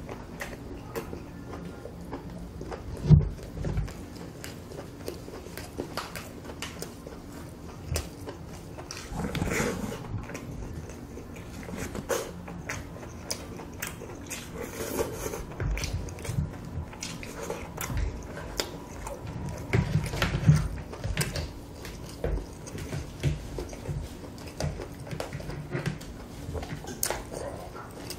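Close-up eating sounds: chewing and biting on saucy lobster meat, with shells cracking and being pulled apart by hand in many short crackles and clicks. There is a loud knock about three seconds in.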